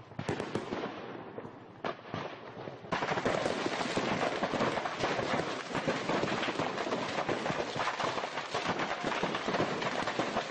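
Rapid crackling of firecracker-type pyrotechnics. About three seconds in, it jumps to a louder, denser, continuous crackle with no single big blast.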